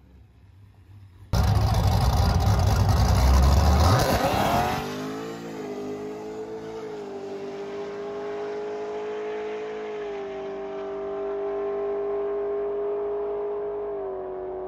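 Supercharged LS V8 of a Pontiac G8 GT launching hard off the drag-strip start line about a second in, loud for the first few seconds. Then it runs on down the quarter-mile as a steady engine note, its pitch stepping down at each upshift as it pulls away.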